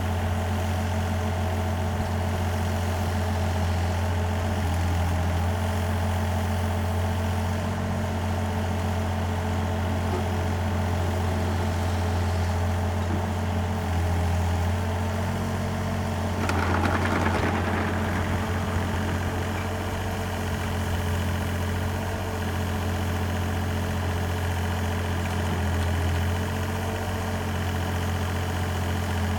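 Steady low mechanical hum, like an engine idling, with a brief burst of noise about seventeen seconds in.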